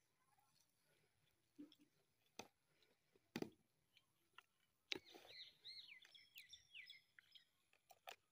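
A bird chirping, a quick string of short notes that rise and fall, starting about halfway through. The rest is quiet apart from a few scattered sharp clicks and knocks.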